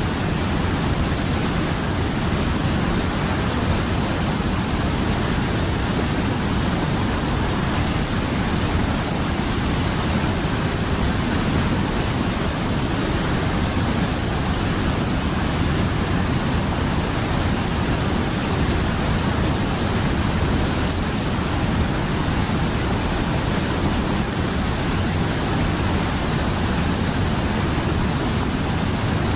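Mountain river flowing, a steady full rush of water over rocks with no change in level.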